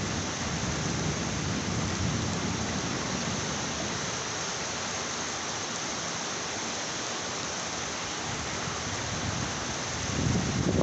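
Heavy rain falling in a steady hiss, with a low rumble of thunder dying away over the first few seconds. A deep rumble builds again near the end.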